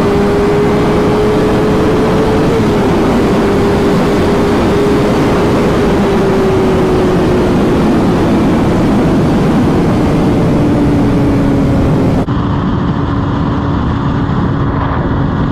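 Motorcycle engine holding a steady note at speed under heavy wind rush, its pitch sinking slowly as the bike eases off. About twelve seconds in the sound switches abruptly to a similar steady engine-and-wind run at a lower note.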